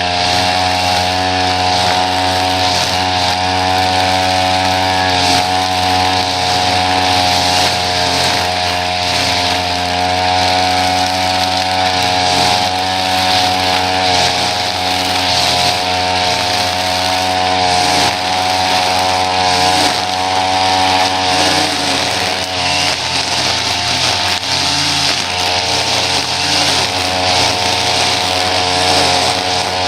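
Small petrol engine of lawn-care equipment running steadily at a constant speed.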